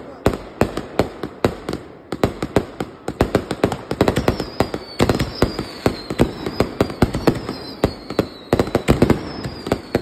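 Aerial fireworks going off in quick succession: a dense, irregular string of sharp bangs and crackles, several a second. A thin high whistle falls slowly in pitch from about four seconds in to near the end.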